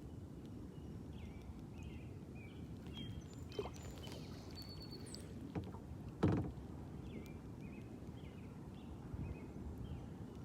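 Kayak paddling: a steady low rumble with a few knocks of the paddle against the kayak, the loudest a little past halfway. Birds chirp repeatedly in the background.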